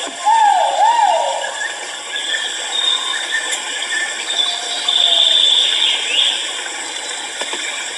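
Great argus (kuau) calling: two swooping notes, each falling then rising, near the start. Behind it runs a steady high-pitched drone of forest insects.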